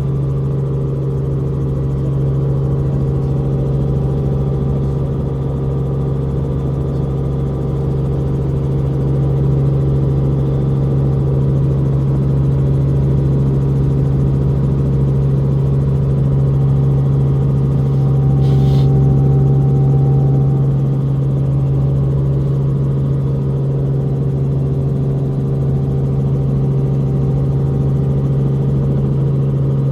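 Helicopter engine and rotor drone in flight, a loud, steady hum with many overtones, with a brief click near the middle.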